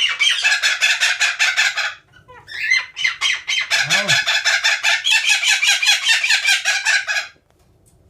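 A pet bird calling in two long runs of rapid, evenly repeated pulsed notes, several a second, with a short break about two seconds in. A person gives a brief "oh" midway.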